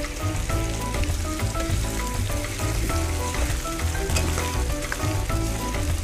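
Squash chunks sizzling in hot oil in a stainless steel pan while a spatula stirs them, with small crackles through the hiss. Background music with a pulsing bass plays underneath.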